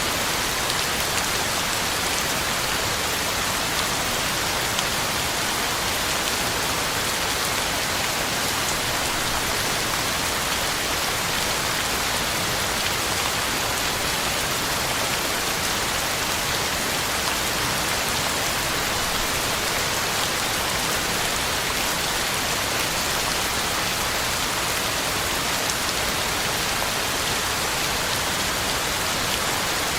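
Heavy rain falling steadily, a constant even hiss of drops on the ground and leaves.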